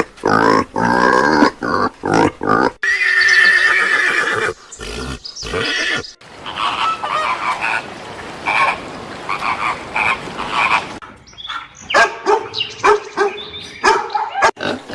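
Several animal calls in succession, with abrupt changes from one kind of call to another.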